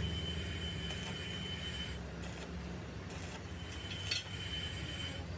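A workshop machine running steadily: a low hum with a thin high whine that drops out about two seconds in and returns a little later, and a sharp click about four seconds in.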